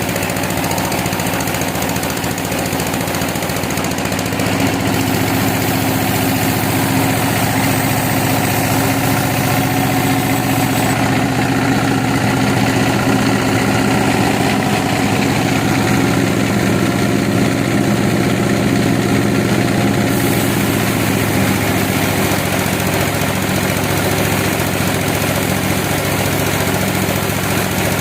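A sawmill's engine running steadily at a constant speed.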